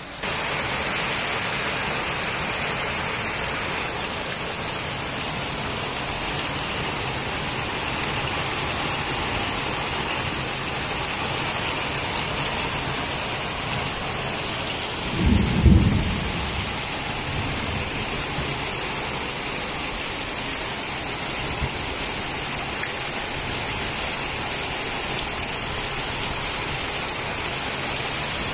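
Heavy rain pouring steadily, a dense hiss of rain falling on concrete roofs and the street. About halfway through there is a brief low rumble.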